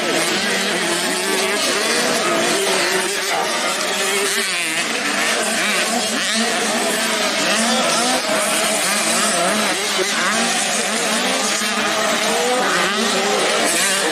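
Several 85cc racing motorcycles racing at once, their engines revving up and down with overlapping, wavering pitches.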